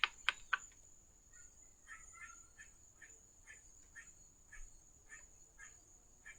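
Faint animal chirping: a short call repeating evenly about twice a second, after a few sharp clicks at the start.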